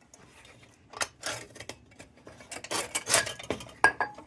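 Glass lantern globe and the lantern's metal frame clinking and scraping as the globe is seated in an Embury No. 50 Little Supreme tubular lantern: a run of knocks and rubs, with a couple of short ringing clinks near the end.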